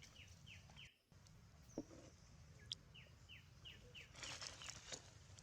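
Faint series of short, falling chirps, about three a second, in two runs: a bird calling. A couple of sharp clicks and some light rustling near the end.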